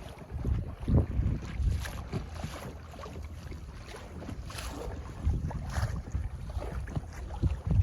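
Wind buffeting the microphone on an inflatable rubber boat on the sea, an uneven low rumble with a few short splashes or knocks of water against the boat.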